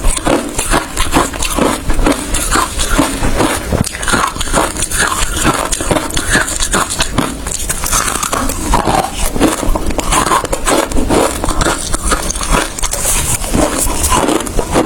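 Close-miked ice being bitten and chewed, a continuous run of dense, irregular crunches and cracks.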